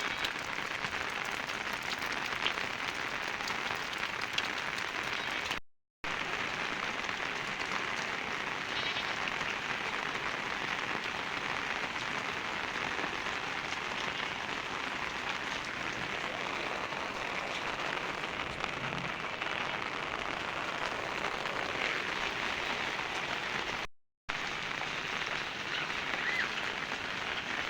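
Steady rain falling, an even hiss with no let-up, broken by two brief dead-silent gaps at cuts.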